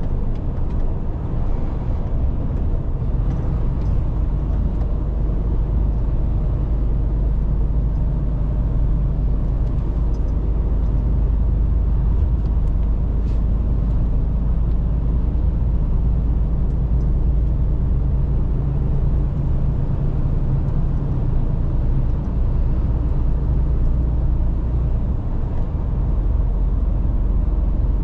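Mercedes-Benz Actros truck driving along, its engine and road noise making a steady low drone.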